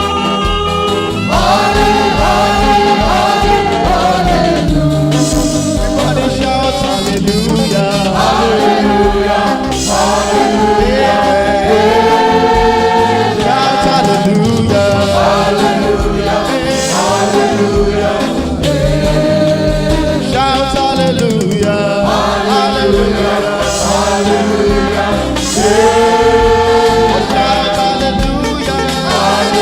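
Gospel praise team singing with instrumental accompaniment: held, gliding sung lines over a steady beat.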